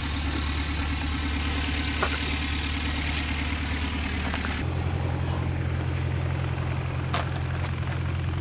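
A motor or engine running steadily with a low, even drone. It shifts to a different pitch about halfway through, and a few sharp clicks sound over it.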